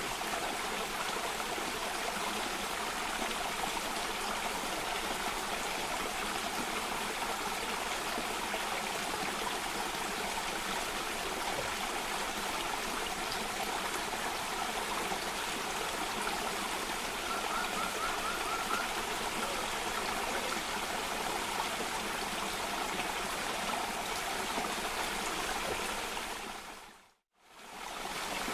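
Water cascading steadily over rocks in a stream or small waterfall, an even rushing sound. Near the end it fades out briefly to silence and fades straight back in, as at a loop point.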